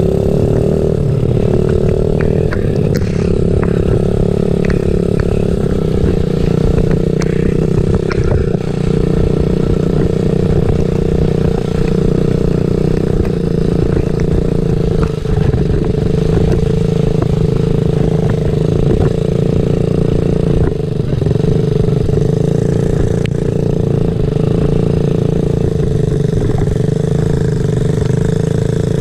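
Small dirt-bike engine running at a steady, nearly constant speed, with a few faint clicks.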